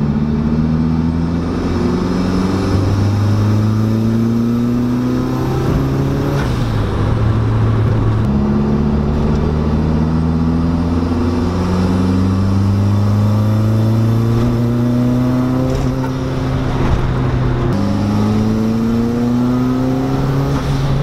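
Turbocharged Mazda Miata four-cylinder engine under full throttle in fourth gear from about 2000 RPM, heard from inside the cabin. The note climbs gradually through three pulls, cut back to back, each starting again lower. A faint high whistle rises with each pull. These are boost-threshold test runs.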